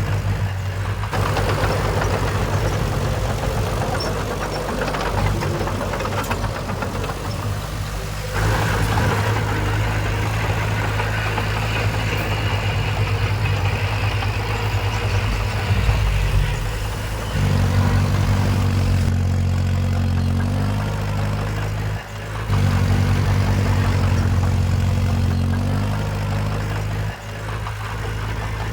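Heavy earthmoving machine's diesel engine running, a steady low drone with a rougher clattering layer above it. The engine note shifts abruptly about a third of the way in, again past the middle, and once more a little later.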